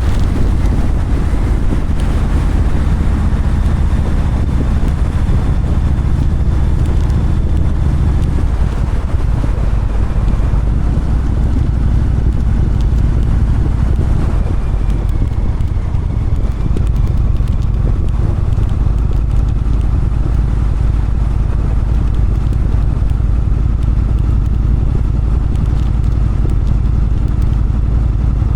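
Motorcycle engine running steadily while riding, with wind noise on the microphone; the engine note shifts slightly about halfway through.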